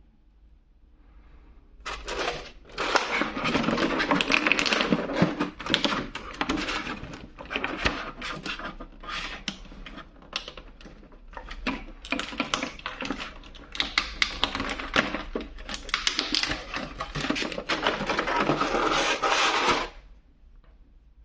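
Plastic toy packaging being handled and unwrapped: dense rustling and crackling with many sharp clicks, starting about two seconds in and stopping suddenly near the end.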